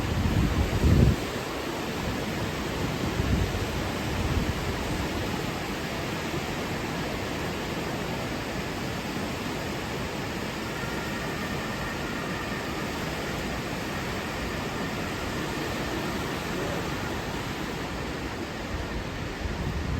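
The swollen, flooding Wienfluss (Vienna River) rushing, a steady, even noise of fast-moving water. A few low bumps sound in the first four or five seconds.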